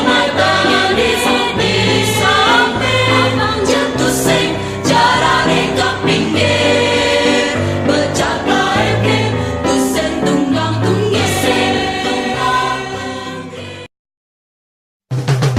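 Music with a choir singing, cut off suddenly near the end, followed by about a second of silence before different music with a heavy bass line starts.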